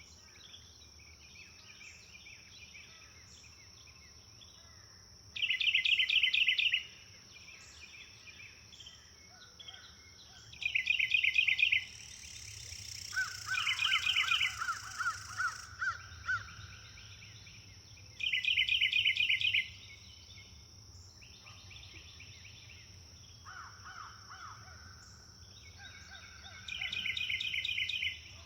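Morning birdsong: one bird repeats a loud, rapid trilled phrase of about a second and a half roughly every five to seven seconds, and a lower run of repeated calls from another bird comes near the middle. A steady high-pitched insect drone runs underneath.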